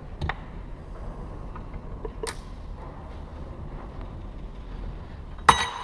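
Metal parts being handled: a few light clicks, then a loud metallic clank near the end that rings on. A steady low hum runs underneath.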